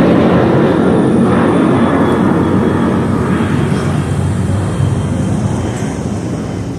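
Jet airliner climbing out overhead after takeoff, its engines a loud rumbling rush with a faint high whine, slowly fading as it moves away.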